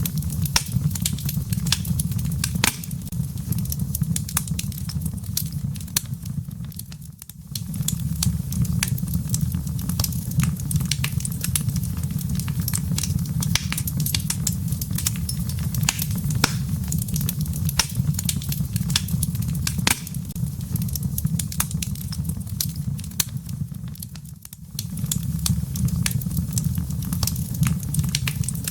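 Wood logs burning in a fireplace: dense, irregular crackling and popping over a steady low roar of the flames. The low roar fades out briefly twice, once about a quarter of the way in and again near the end.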